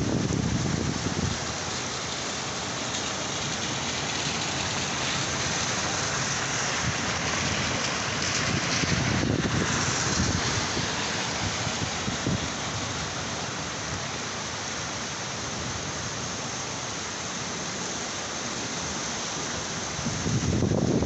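Heavy rain falling steadily in a dense hiss. A low rumble fades out in the first second and another builds near the end.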